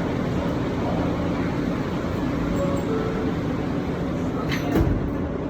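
Steady rumble and hum inside a New York City subway car, with a short sharp knock near the end.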